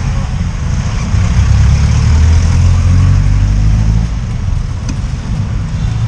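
Motorcycle engine running under way, getting louder between about one and four seconds in as it pulls, then easing.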